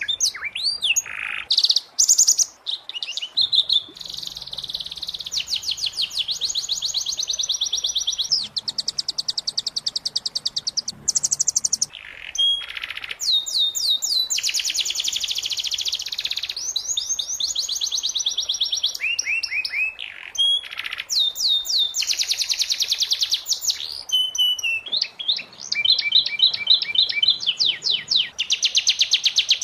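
Domestic canary singing a continuous song of rapid trills and rolling runs of repeated notes, switching from one trill to the next every second or two.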